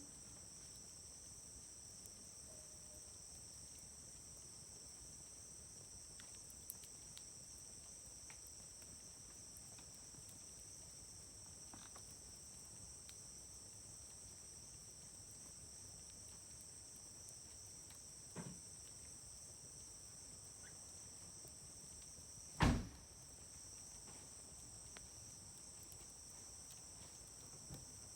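Wood fire in a fire grill burning quietly, with a few faint crackles and two sharp pops: one about two-thirds of the way in and a louder one soon after. A steady high trill of insects runs underneath.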